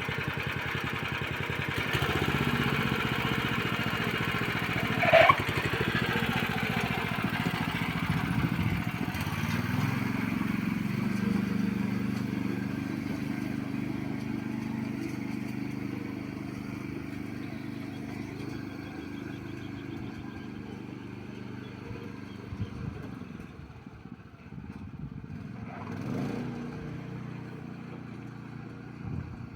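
Vehicle engine running steadily on the move, with one short high-pitched squeak about five seconds in; the engine sound slowly fades toward the end.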